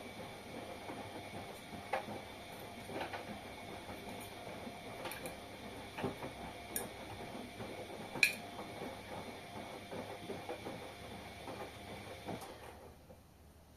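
Washing machine running a wash cycle: a steady mechanical hum and clatter with scattered small knocks, one sharper knock about 8 s in. The machine noise drops away near the end.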